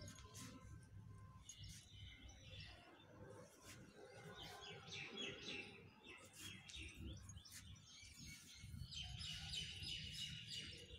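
Faint chirping of small birds in several short bouts, over a steady low rumble.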